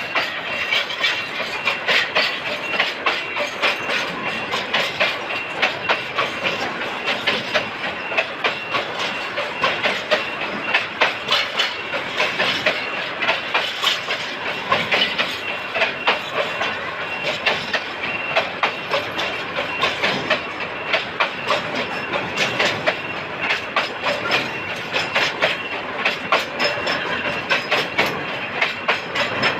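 Freight train wagons rolling by, their wheels clattering steadily over the rail joints with many sharp clicks.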